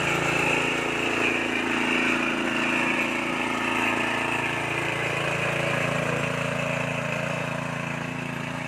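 Small engine running steadily, its pitch shifting slightly as it works.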